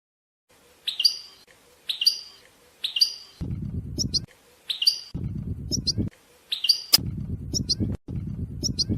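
European goldfinch calling: a sharp, dropping call repeated about once a second, giving way to quicker, shorter twittering notes near the end. A low background rumble comes and goes from a few seconds in.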